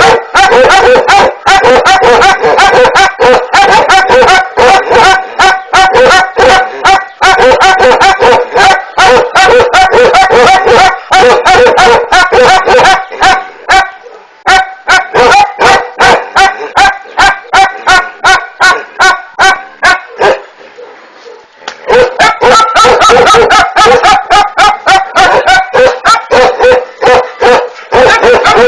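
Young dog of the Ladakhi 'one breath barking' breed barking in a fast, unbroken string of loud barks, several a second, breaking off briefly near the middle and pausing for a second or two about three quarters through before going on.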